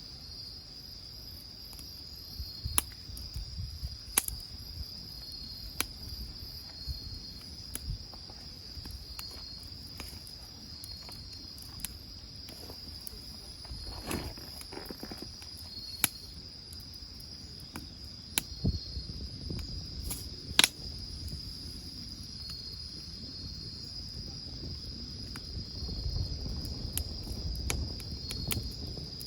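Crickets trilling steadily, with the sharp pops and crackles of a wood fire every second or few, the loudest pop about two-thirds of the way through.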